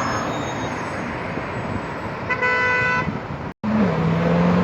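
Street traffic noise with a car horn sounding once, for under a second, a little over two seconds in. After a brief break, a car engine's low steady drone follows, dipping slightly in pitch as it starts.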